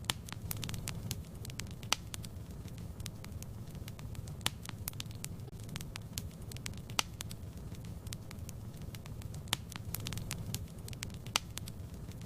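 Wood fire crackling in a fireplace: a steady low rumble of flames with irregular sharp pops and snaps, a few louder ones scattered through.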